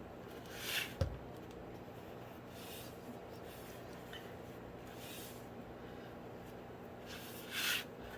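Short rubbing swishes of hands smoothing and pressing glued fabric and paper on a hardback book cover, four strokes a couple of seconds apart, the last the loudest, with a light thump about a second in.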